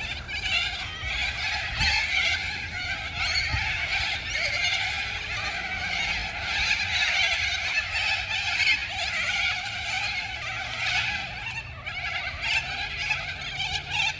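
A large flock of cockatoos calling and screeching all at once: a dense, continuous, harsh clamour of overlapping cries.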